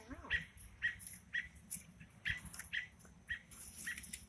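A bird chirping over and over, about two short chirps a second, with a brief whine near the start.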